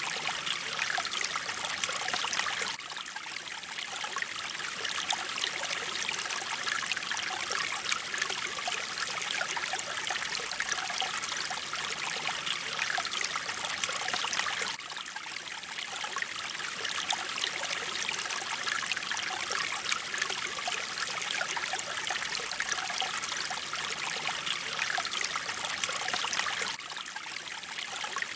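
Mountain stream flowing: a steady rush of water with trickling, dipping slightly in level about every twelve seconds.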